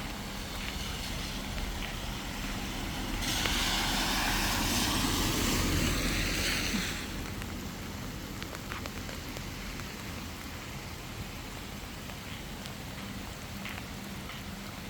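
Steady rain and wet outdoor ambience. About three seconds in, a louder rushing hiss comes up, lasts about four seconds, then drops back.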